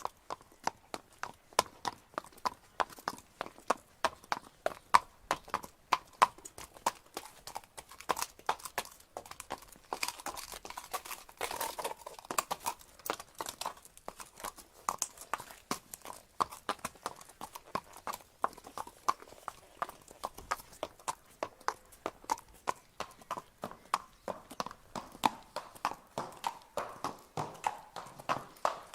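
A horse's hooves clip-clopping at a walk: a steady run of sharp hoof strikes, about three a second, a little busier and louder around ten to thirteen seconds in.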